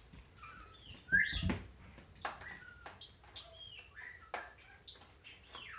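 Small birds chirping: short, high whistled chirps and glides scattered through, with a few soft clicks.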